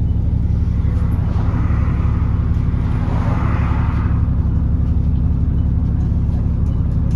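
Alexander Dennis Enviro400 E40D double-decker bus running with a steady low drone. A hiss swells and fades about two to four seconds in.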